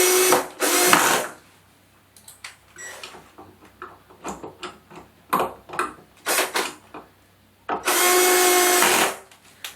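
Cordless electric screwdriver running in short bursts, twice at the start and once for about a second near the end, with clicks and knocks of handling in between, as the TV is screwed back together.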